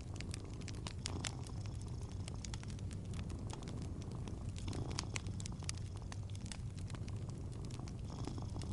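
Wood fire crackling with frequent sharp pops, over a cat's steady low purr.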